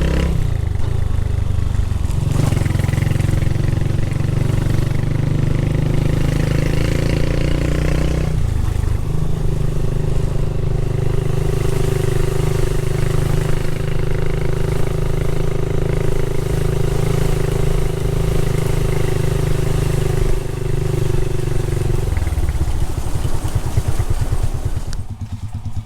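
Motorcycle engine running at a steady pace, changing note about two seconds in and again about eight seconds in, then dying away near the end.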